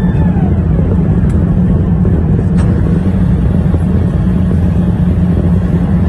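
Steady, loud low rumble of engine and airflow noise inside an Airbus A380 cabin, with one faint click about two and a half seconds in.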